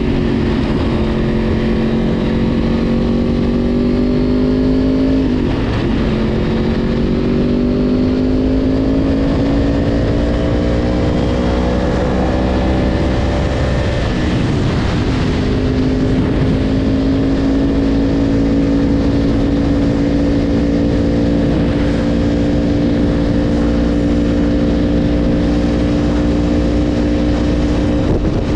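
Yamaha R1's inline-four engine pulling under acceleration on the road, pitch climbing slowly with a quick upshift about five seconds in and another about fourteen seconds in, then cruising at a steady pitch.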